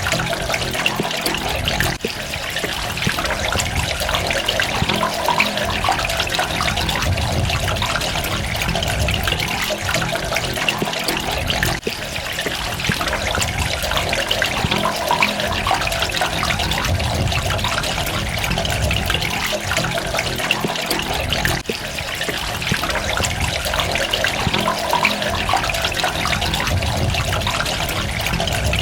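Water running and trickling steadily, with a dense patter of small drops splashing.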